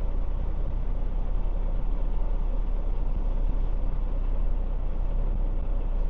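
Semi truck's diesel engine running steadily as a low, even rumble.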